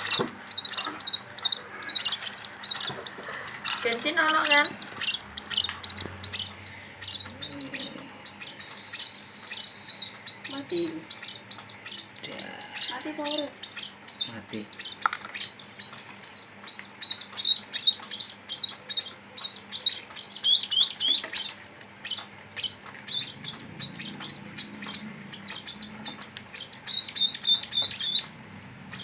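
Sparrow chicks chirping: a fast, steady run of high, repeated chirps, about three a second, that stops shortly before the end.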